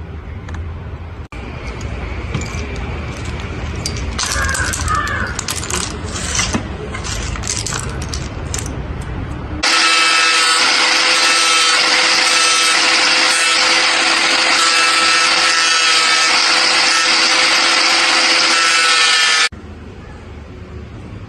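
A small power tool runs steadily on coconut shell for about ten seconds, starting and stopping abruptly about halfway through. Before it, there are several seconds of irregular scraping and clicking from handling the work.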